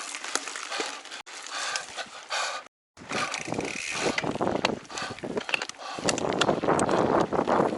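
Mountain bike freehub ticking as the rider coasts, then tyres and frame rattling and clattering over rough trail. The sound cuts out completely for a moment just before three seconds in, and the trail noise grows louder and fuller about six seconds in.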